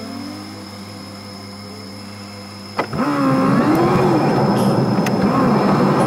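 A car's engine idling, heard from inside the cabin; about three seconds in there is a sharp click, then the engine revs rise and fall as the car pulls away and drives off, with louder road noise.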